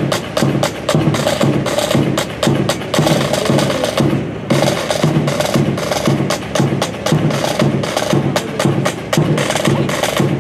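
Rhythmic percussion: a fast, steady run of sharp wooden clacks over drums, with a short break about four seconds in.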